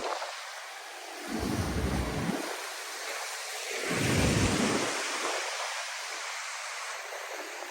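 Black Sea waves washing onto the shore, a steady hiss with two louder swells of surf, about a second and a half and about four seconds in, the second the louder.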